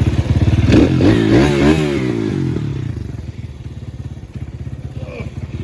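RXF 150cc pit bike's single-cylinder four-stroke engine running just after starting on one kick. Its speed rises and falls about a second in, then settles to a quieter, steady idle.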